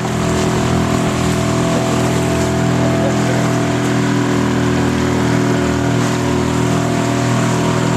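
Boat motor running steadily at an even pitch while under way, over a constant rush of water and wind noise.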